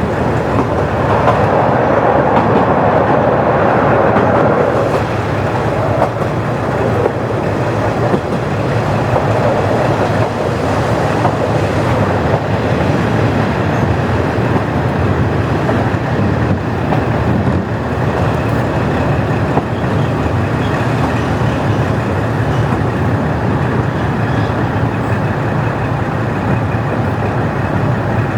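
KiHa 40-series diesel railcar with its original engine, running on the line: a steady low engine drone mixed with wheel-and-rail running noise. The rush of noise grows louder for a few seconds near the start.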